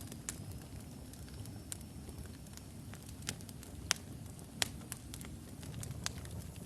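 Wood fire burning in a fireplace: a steady low rumble of flames with irregular sharp crackles and pops from the burning logs, two louder pops near the middle. A faint thin high whistle runs through the first few seconds.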